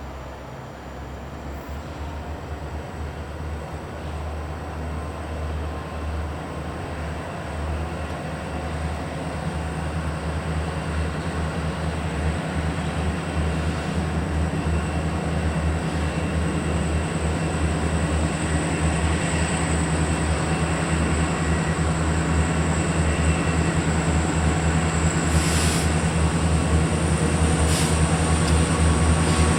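Canadian National diesel-hauled train approaching, its locomotive engine rumbling steadily and growing gradually louder as it draws near.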